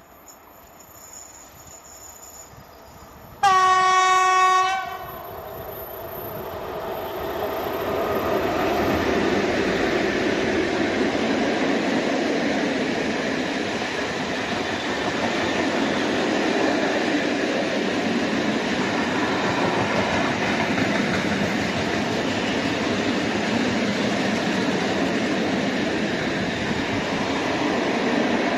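PKP ET42 electric locomotive sounding one horn blast on a single note, about a second and a half long. Its train then rolls past with a steady rumble of wheels on rail that builds over a few seconds and keeps up.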